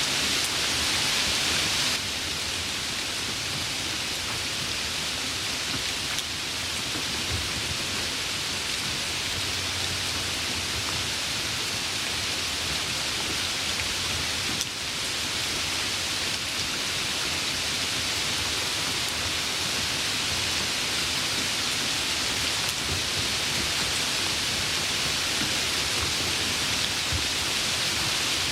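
Steady rain falling, an even hiss with no distinct drops standing out, dipping slightly in level twice.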